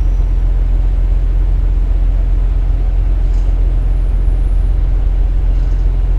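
KiHa 47 diesel railcar running, heard from inside the car: a steady low drone of the diesel engine and wheels on rail, with no change in pitch or level.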